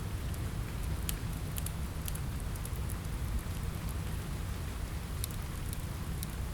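Steady rain with a deep, even rumble underneath, mixed with scattered sharp pops and crackles from a fireplace fire.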